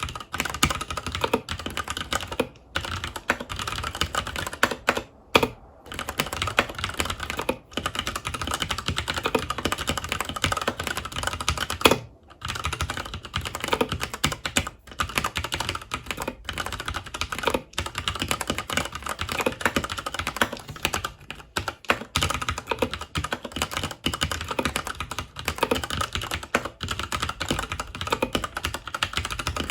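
Continuous fast typing on a FILCO Majestouch 2 Hakua tenkeyless mechanical keyboard with Cherry MX Brown tactile switches: a dense run of key clacks, broken by a few short pauses.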